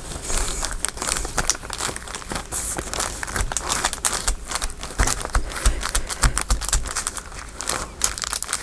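Paper crinkling and rustling under the hands, a continuous irregular patter of small crackles and scrapes, as a freshly glued paper piece is rubbed down with a cloth rag.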